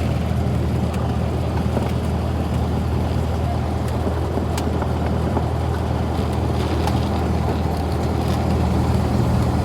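Cessna 172's piston engine and propeller running steadily, a constant low drone heard inside the cabin.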